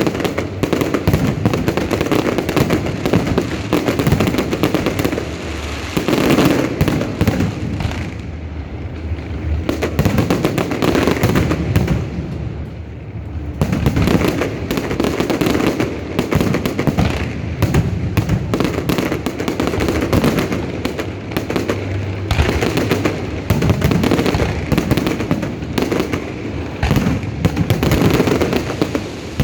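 Aerial fireworks display: a dense, continuous run of bangs and crackling, easing off briefly about a third of the way through and again near the middle before building back up.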